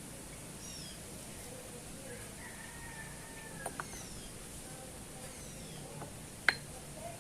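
Faint chirping of birds over steady background hiss, with a couple of light clicks a little past halfway and one sharp click near the end.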